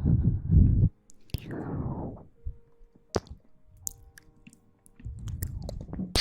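Close-miked ASMR rubbing on the microphone, loud and low, which stops abruptly about a second in. It is followed by scattered sharp clicks and soft, brief rustles.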